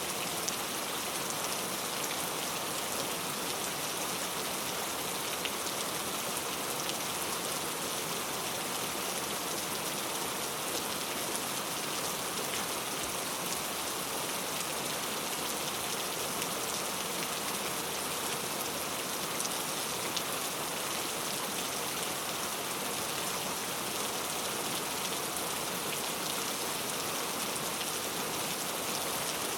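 Steady heavy rain falling, a dense even hiss of drops with many small pattering ticks and no change in intensity.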